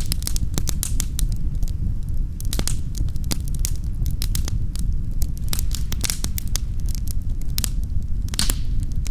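Wood fire crackling in a fireplace: irregular sharp pops and snaps over a steady low rumble, with a short hiss about eight and a half seconds in.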